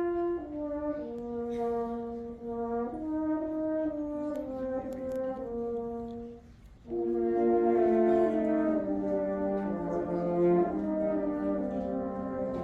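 Instrumental band music from a recorded concert: a slow melody of held notes moving step by step. It breaks off briefly about halfway, then returns with several parts playing together and a lower line falling underneath.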